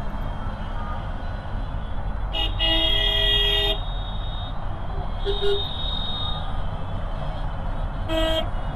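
A vehicle horn sounds one long blast of about a second and a half, then a short toot near the end. Underneath is steady wind and road rumble from riding in traffic.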